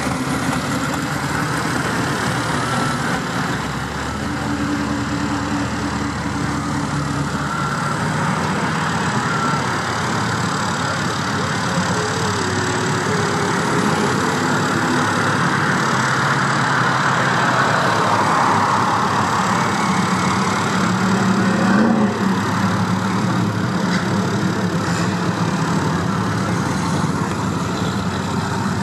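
A slow procession of cars driving past with their engines running, several engines heard at once, getting a little louder around two-thirds of the way through.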